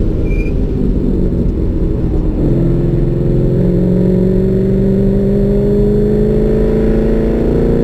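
Car engine heard from inside the cabin, running at moderate revs through a corner. Its note wavers for the first couple of seconds, then climbs slowly and steadily as the car accelerates gently.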